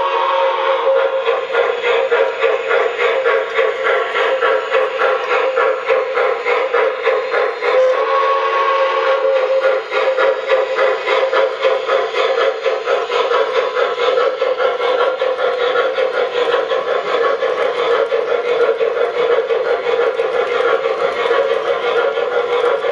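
MTH Premier O-gauge NYC Dreyfuss Hudson model steam locomotive running, its electronic sound system playing steady, rapid steam chuffing over the rolling hum of the train on the track. A short whistle blast sounds about eight seconds in.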